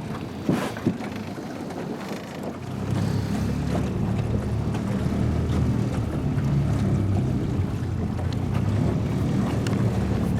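Boat motor running steadily at low speed, with wind on the microphone and a couple of knocks just under a second in. The motor's hum is weaker for the first few seconds, then holds steady.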